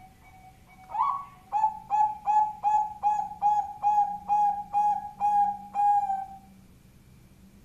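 Bangkok-type zebra dove (perkutut) singing: faint soft notes lead into a rising note about a second in, then a run of about ten short, clipped coos, roughly two a second, that stops about six seconds in.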